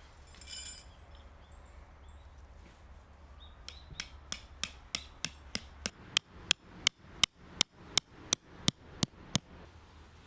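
A metal tent peg being hammered into the ground: a steady run of about seventeen sharp strikes, roughly three a second, the first few light and the rest much harder.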